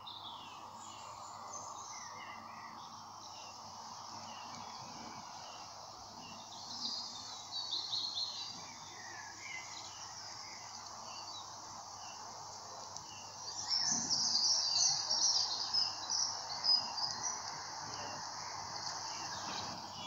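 Small songbirds chirping and twittering in scattered high notes, with a louder run of quick chirps about two-thirds of the way in, over a steady outdoor background hiss.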